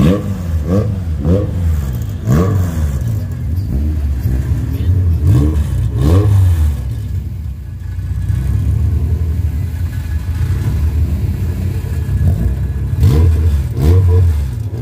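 Car engines revved in quick repeated blips, each rising and falling sharply in pitch, while staged for a street-race launch. About halfway through they settle into a steadier run, and the blipping picks up again near the end.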